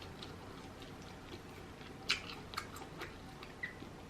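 Close-miked chewing of rotisserie chicken, with a handful of short, faint wet mouth clicks in the second half.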